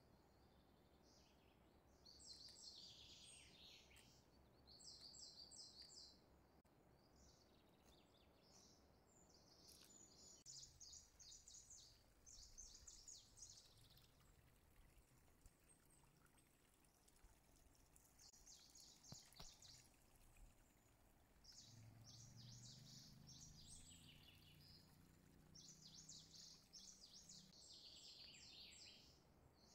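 Faint bird chirping over near silence: short bursts of rapid, high chirps repeating every couple of seconds.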